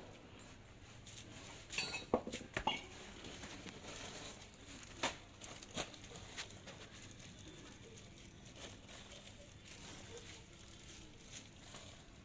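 Light metallic clinks and knocks of tools and small metal parts being handled: a quick cluster about two seconds in, two more single knocks a few seconds later, then scattered faint ticks.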